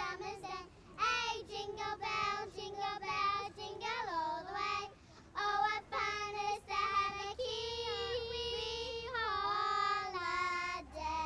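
A child singing a tune alone, in phrases of held and gliding notes.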